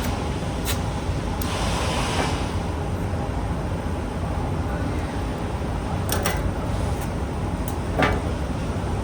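Steady low mechanical rumble, with two hissing bursts about a second long near the start and a few sharp clicks later on.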